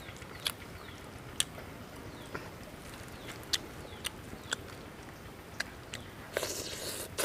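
A person eating grilled chicken with his fingers: close mouth clicks and smacks from chewing, spaced irregularly, then a brief rustle near the end as meat is pulled from the bird.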